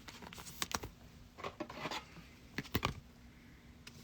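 A few short clusters of light clicks and taps, with a brief rustle about a second and a half in: small objects being handled on a table.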